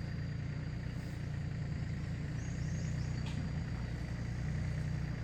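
A motor running steadily with a low, even drone and a faint high whine over it.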